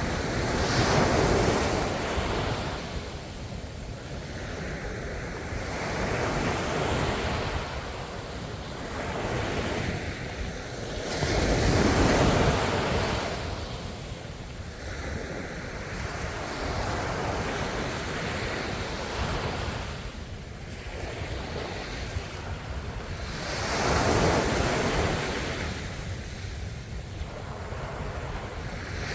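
Ocean waves breaking and washing on the shore, a noisy rush that swells and fades every few seconds, with three bigger surges: about a second in, midway, and near the end.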